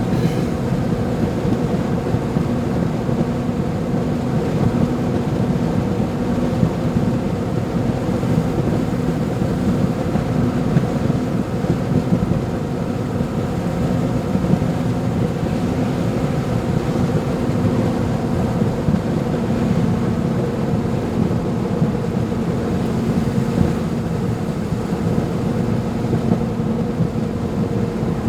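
Steady in-vehicle driving noise: an engine drone with road noise, holding an even level throughout.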